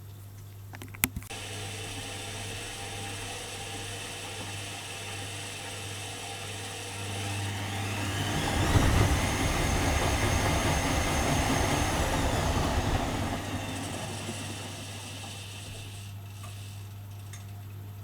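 Privileg Dynamic 4612 washing machine running: a click about a second in, then a steady hum. About seven seconds in the drum motor whine rises and grows louder, holds for a few seconds, then winds back down.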